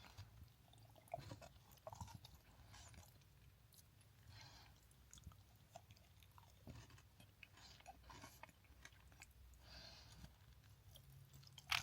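A person chewing a chocolate bar with crunchy crispies: faint, scattered small crunches and clicks.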